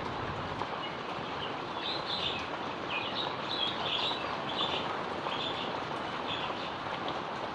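Heavy rain falling steadily, with short high chirps repeating every half second or so over it.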